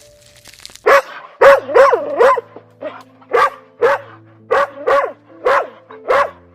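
An animal giving a series of about ten short, loud calls, each rising and falling quickly in pitch, starting about a second in.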